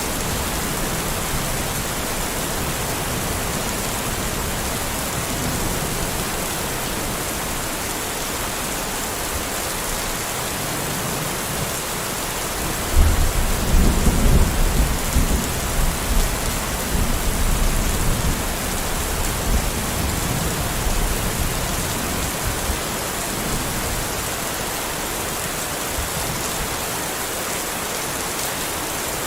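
Steady heavy rain falling, with a roll of thunder that breaks in sharply about halfway through and rumbles on for several seconds before fading back under the rain.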